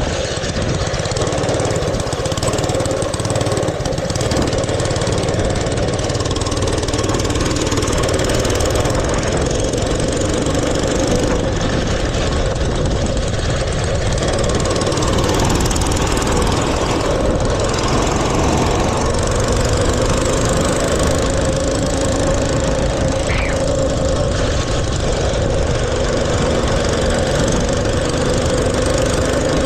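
Mini bike's small engine running steadily as the bike is ridden, its note wavering slightly up and down, over heavy wind rumble on the camera's microphone.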